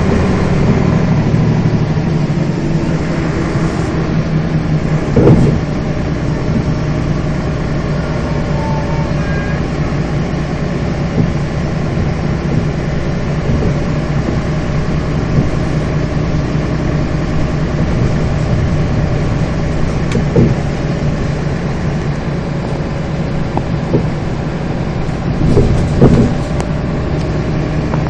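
Scania bus engine running steadily, with a few short knocks over the drone.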